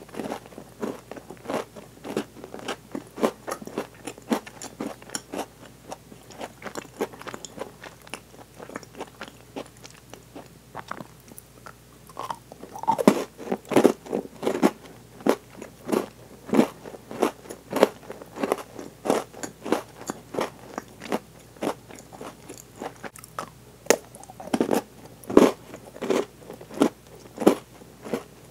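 Close-miked chewing and crunching of Milka Oreo chocolate, milk chocolate and cookie pieces cracking between the teeth, about two chews a second. The crunching grows louder about halfway through.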